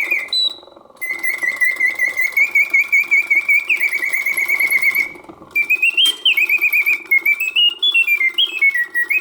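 Vintage Karl Griesbaum singing bird cage automaton singing in continuous mode: its bellows-driven whistle warbles mechanical birdsong in rapid trills and stepping runs of notes, breaking off briefly twice. The song is strong, the sign of a mechanism working as it should.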